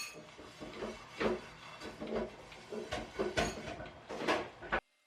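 Light clatter: scattered small knocks and clinks over a faint hiss, cutting off abruptly near the end.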